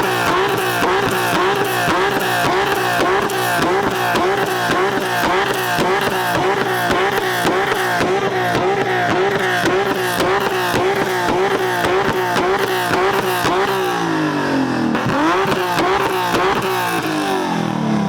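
Car engine revved hard in quick repeated pulses, about three a second, with crackling pops on each pulse. Near the end the revs drop away, climb once more and fall again.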